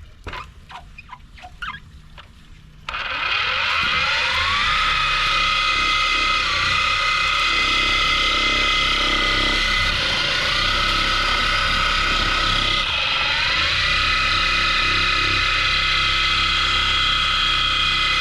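A handheld electric power tool starts about three seconds in and runs at high speed, a steady whine that spins up over a second or so. Its pitch sags briefly and recovers three times as the tool is pressed against the work, typical of sanding or polishing a headlight lens.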